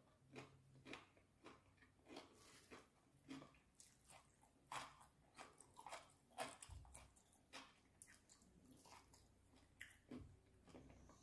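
Faint, close-miked eating: irregular chewing, biting and wet mouth clicks as a pickle slice and French fries are eaten.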